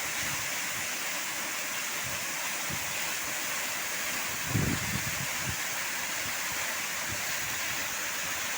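Steady rushing of a waterfall, with a brief low thump about four and a half seconds in.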